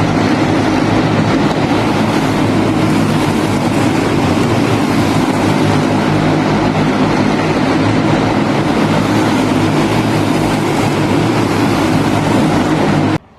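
Loud racing engines running hard at a steady, nearly unchanging pitch. The sound cuts off abruptly near the end.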